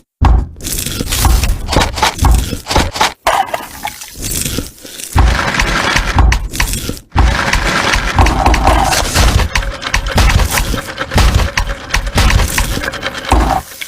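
A dense run of sharp cracking, crunching and scraping sounds, like something brittle being broken or crushed, broken by short silent gaps about 3, 5 and 7 seconds in.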